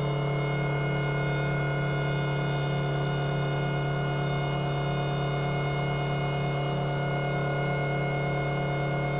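A steady machine drone: a strong low hum with many higher tones above it, unchanging in pitch and level.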